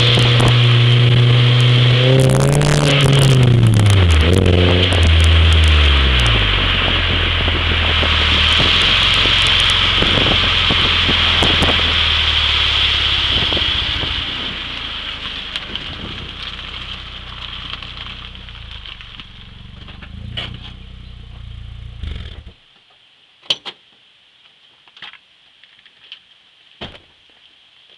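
A 1996 Toyota Corolla's 1.8 L 7A-FE four-cylinder running through a TRD exhaust. It is held at raised revs at first, then the revs drop back over a few seconds and it runs on steadily at a lower speed, growing quieter. About 22 seconds in the engine sound stops suddenly, and a few light clicks follow.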